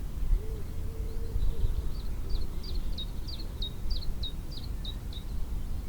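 A small songbird singing a quick series of about a dozen high, down-slurred notes, roughly four a second, over a steady low rumble.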